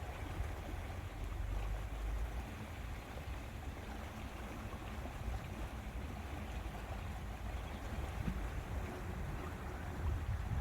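Steady outdoor wind ambience with a low rumble from wind on the microphone.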